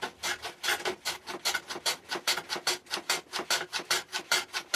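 Quick back-and-forth rasping strokes of a tool on wood, about five a second and very even, as a wooden piece is trimmed on a shooting board to fit a box.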